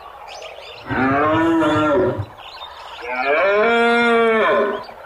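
Two long, drawn-out calls from a large hoofed animal, each rising and then falling in pitch, the first about a second in and the second, slightly longer, about three seconds in.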